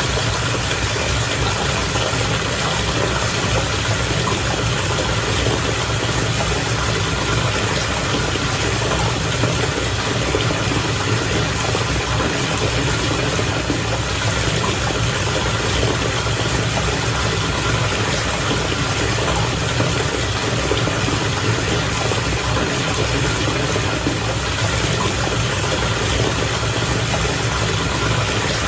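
Bath water bubbling steadily, with a constant low hum underneath.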